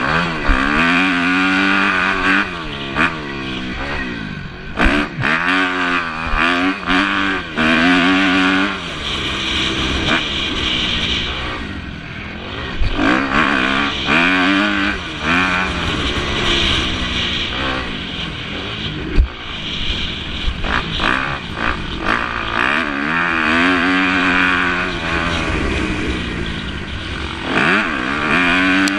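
Motocross bikes racing past, their engines revving up and falling back again and again through gear changes, swelling several times as riders go by.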